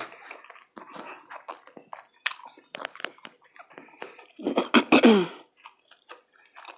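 Close-up mouth sounds of someone eating: wet chewing and lip smacks in many small, uneven clicks. About four and a half seconds in comes one loud, short burst from the throat, falling in pitch, like a cough.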